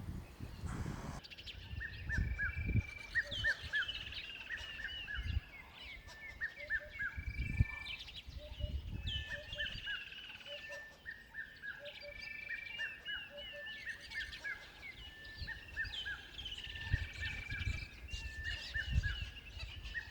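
Several birds calling, with rapid runs of short chirping notes repeated over and over, over intermittent low rumbles.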